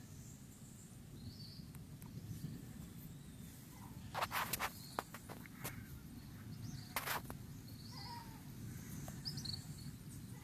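Low steady outdoor rumble with short high chirps every second or two. Two brief clusters of scuffs or knocks come about four and seven seconds in, the loudest sounds here.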